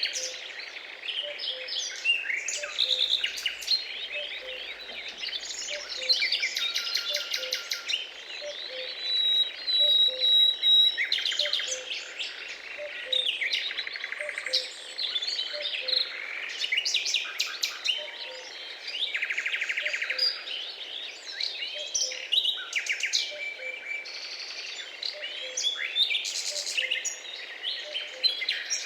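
A chorus of several wild birds singing and calling at once, with many overlapping chirps, trills and whistles. Under it a faint low note repeats steadily, about twice a second.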